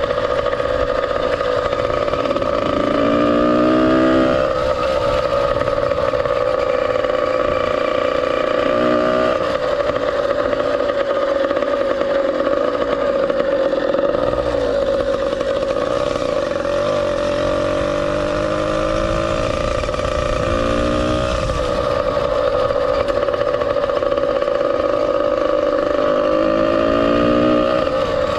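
Ported 100cc two-stroke engine of a motorized bicycle, with an expansion-chamber pipe, running at high revs under way. It gives a steady high drone with several rising sweeps as it revs up.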